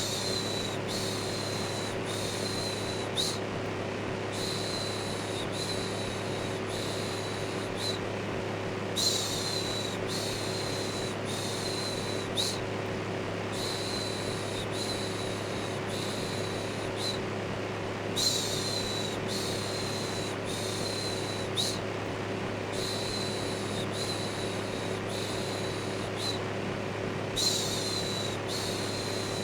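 An electric fan running with a steady hum, overlaid by repeated "shhh" shushing sounds. The shushes come in quick runs of five or six, about one every 0.7 s, each run followed by a pause of about a second and starting with a louder shush.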